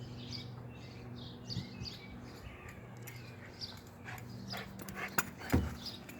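A pet dog making small noises up close, with a run of sharp clicks and knocks in the second half. Birds chirp in the background over a steady low hum.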